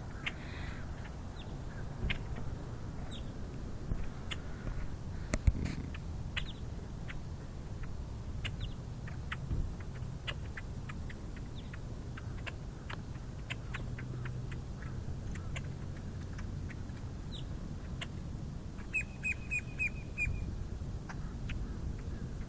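A flock of birds calling with scattered short chirps throughout, and a quick run of about five repeated notes near the end, over a steady low hum.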